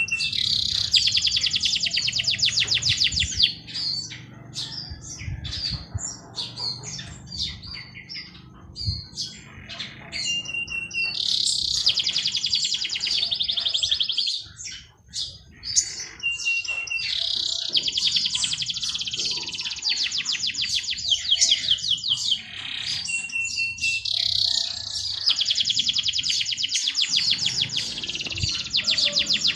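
Songbird singing the same song several times. Each song opens with a short, steady whistled note and runs into a rapid, high trill lasting a few seconds, with scattered short chirps between songs.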